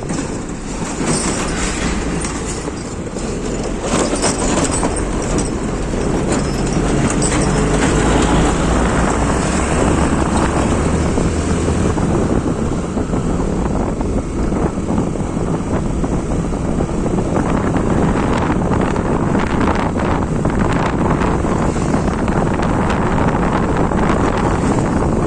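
Motorcycle riding along a road: a steady engine drone under continuous wind and road noise.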